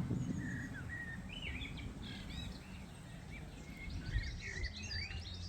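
Songbirds singing: quick runs of chirps and warbling notes that grow busier after the first second or so, over a low steady rumble.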